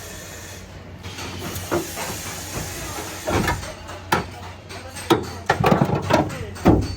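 A steady hiss, then from about three seconds in a run of irregular sharp knocks and bangs, growing louder and denser near the end, over a low steady hum.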